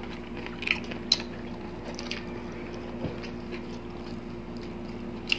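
Close-miked eating sounds: chewing crispy fried chicken, with a few short sharp mouth clicks and smacks, over a steady low hum.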